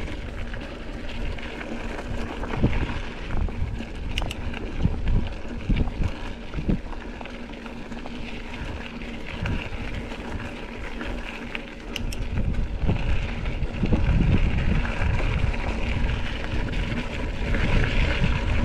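Wind buffeting the microphone of a riding mountain bike, over the rumble of tyres on a rough dirt trail and frequent knocks and rattles from the bike. It grows louder about two-thirds of the way through as the ride picks up speed.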